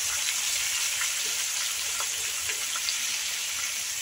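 Chicken pieces frying in hot oil in a kadai: a steady sizzling hiss with small scattered pops and crackles.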